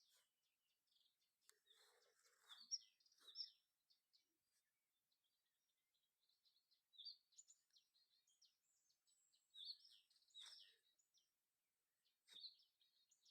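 Faint songbird chirping: several short high phrases repeated at intervals, over a very quiet rural background.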